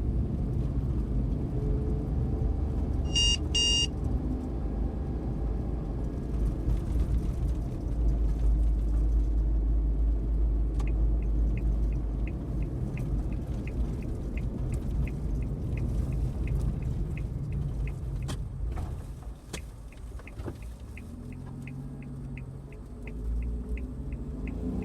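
Cab interior of a Suzuki Every van's 660 cc three-cylinder engine and road noise, a steady low rumble, with a short electronic beep about three seconds in. From about halfway a turn-signal indicator ticks steadily while the van slows almost to a stop, then the engine note rises as it pulls away near the end.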